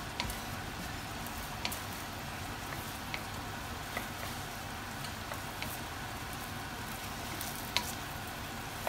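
Sweet and sour chicken sizzling steadily in a non-stick pan as a wooden spoon stirs it through the sauce, with a few sharp ticks along the way.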